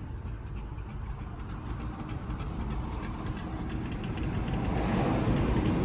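Car engine and road rumble heard from inside the cabin, growing steadily louder through the second half.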